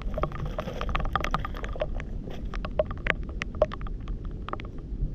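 Outdoor riverbank ambience: a steady low rumble of wind and water under many irregular, sharp little clicks and clinks, as of small stones and debris knocking together.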